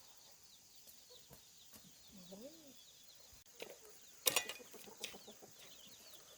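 Farm poultry calling, with one wavering call about two seconds in and faint high chirping throughout. A single sharp knock comes a little past four seconds.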